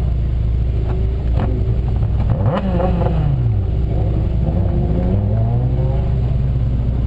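Honda S2000's four-cylinder engine running hard; about two and a half seconds in the pitch drops off over about a second as the revs fall, then climbs again from about five seconds in as it revs back up.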